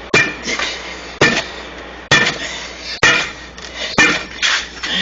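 Hand tools clanking against a steel truck wheel rim while prying a stiff, cold tire bead off by hand: six sharp metal strikes, about one a second, the last two closer together.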